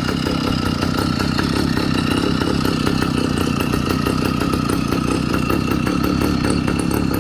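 Stage 4 two-stroke motorized-bicycle engine running steadily at idle through a Viper flex exhaust, a rapid, even string of firing pulses that holds the same speed throughout.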